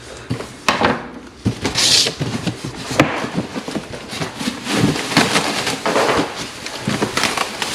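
Unpacking a boxed alloy wheel: cardboard and plastic packaging rustling and scraping, with scattered knocks and clicks, and a brief hissing rustle about two seconds in.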